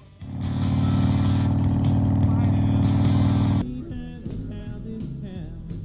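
Motorcycle engine running loudly under rock music on the film soundtrack, cutting off abruptly about three and a half seconds in to quieter film music.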